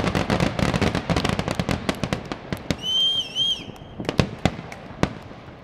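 Fireworks finale crackling: a dense rapid crackle of many small bursts that thins out over the first few seconds. A brief warbling whistle comes about three seconds in, followed by a few last separate bangs.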